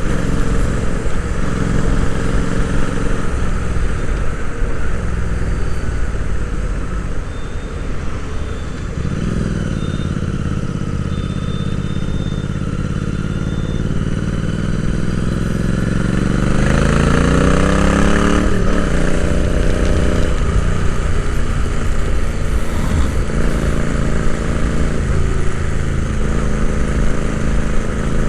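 Royal Enfield Interceptor 650's parallel-twin engine running under way, heard from onboard. About a third of the way in it pulls up in pitch through a gear, rising faster before the pitch drops off at a gear change, then it runs steady again.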